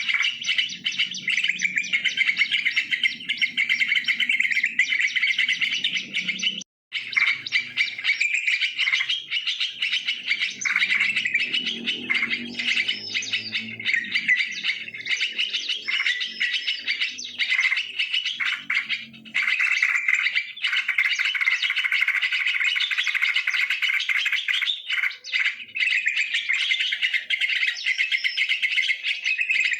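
Yellow-vented bulbuls (trucukan) calling in a dense, continuous stream of chirps, as played from a bird-lure recording. It cuts out for a moment about seven seconds in.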